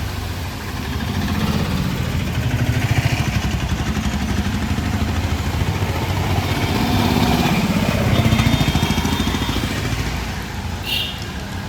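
Street traffic: motor vehicle engines passing close, growing louder about three seconds in and again about eight seconds in.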